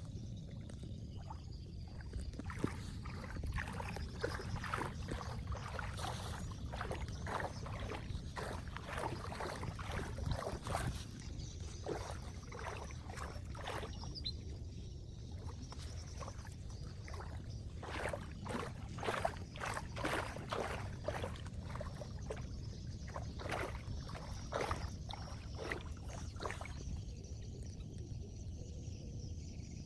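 Water splashing and sloshing in irregular strokes as debris is pulled by hand from floodwater at a clogged storm drain, over a steady low rush of draining water.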